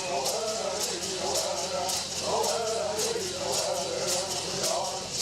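Singers chanting a bird song in unison, over a steady shaking of rattles at about three strokes a second.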